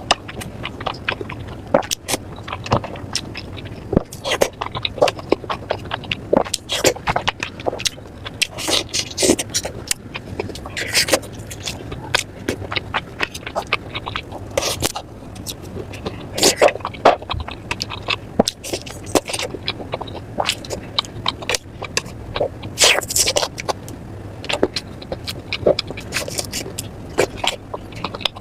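Close-miked eating sounds of noodles, turkey and enoki mushrooms: irregular crunching, chewing and slurping, a steady scatter of short clicks and wet bursts.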